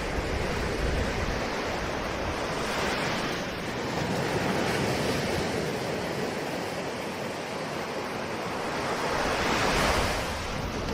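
Ocean surf: a continuous wash of waves that swells and ebbs, with a louder wave surging in near the end.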